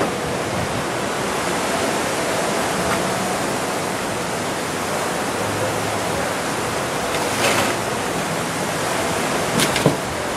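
Steady rushing noise, most likely wind on the microphone, with a few brief knocks in the second half.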